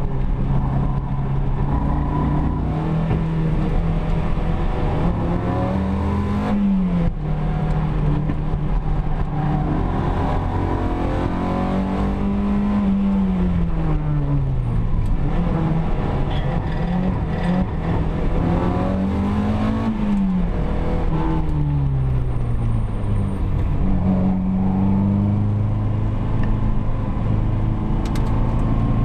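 Opel Kadett GT/E's four-cylinder engine heard from inside the cabin at racing pace, its pitch climbing under acceleration and dropping as the driver shifts or lifts off, several times over.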